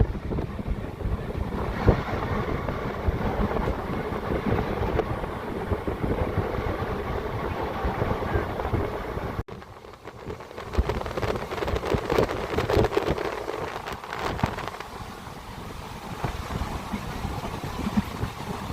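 Moving passenger train heard from on board: a steady rumble and rattle of the wheels and carriage, with wind buffeting the microphone. The sound cuts out abruptly about halfway through and then carries on.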